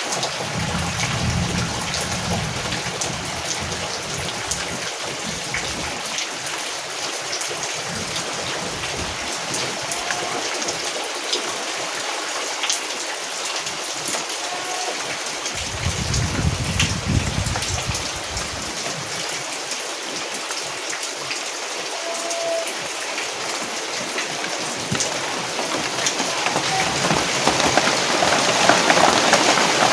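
Steady rain falling, with many small drops ticking on a surface. A low rumble swells in briefly twice, early and a little past halfway, and the rain grows louder near the end.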